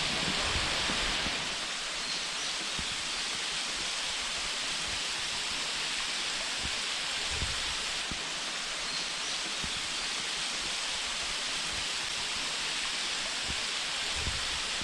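Small waterfall with water rushing steadily, a little louder for the first second or so, with a few faint low thumps.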